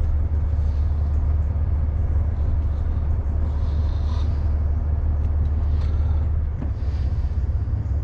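Lorry's diesel engine running at low speed, a steady low rumble heard from inside the cab, dropping slightly about six and a half seconds in.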